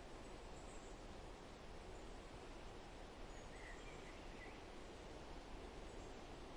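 Faint forest ambience: a steady low background hiss with a few brief, faint bird chirps about halfway through and faint high peeps now and then.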